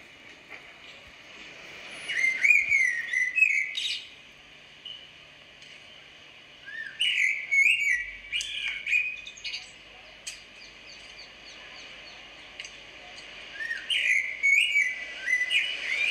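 Bird song: three short phrases of quick, warbling chirps a few seconds apart, over a faint steady high-pitched background.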